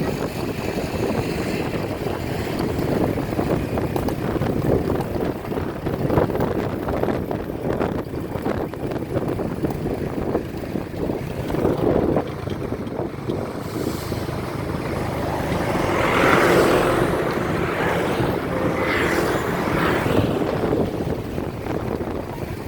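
A motor running steadily, with wind buffeting the microphone; the noise brightens and grows louder for a few seconds near the end.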